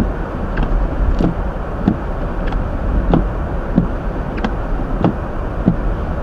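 Windshield wipers of a Hyundai Elantra sweeping steadily, a soft thump at each stroke about every two-thirds of a second, over the steady rumble of the car's engine and tyres heard from inside the cabin.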